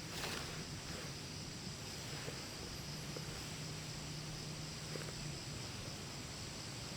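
Steady high-pitched chorus of insects such as crickets, with a low steady hum underneath and a few faint clicks.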